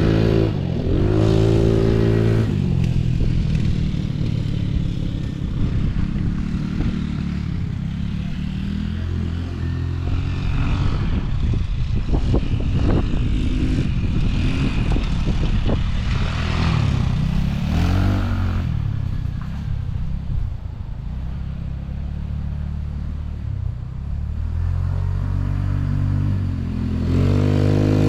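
Small off-road engine revving up and down several times while riding, with steadier running and some clatter in between.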